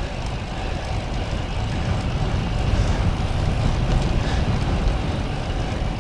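Steady wind noise rumbling on the microphone of a moving bicycle, with no distinct events.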